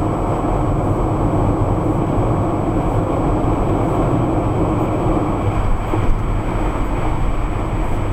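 Steady road noise of a car driving at freeway speed: an even tyre and engine rumble with no sudden events.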